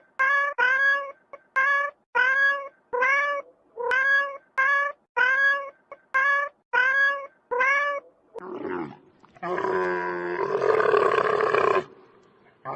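A cat meowing over and over: about ten short meows at an even pace, each rising slightly in pitch. Near the end comes a louder, rough, drawn-out animal call lasting a couple of seconds.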